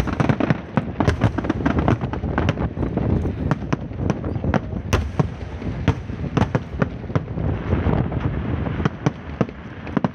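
Fireworks and firecrackers going off in a dense barrage: sharp bangs several a second over continuous crackling.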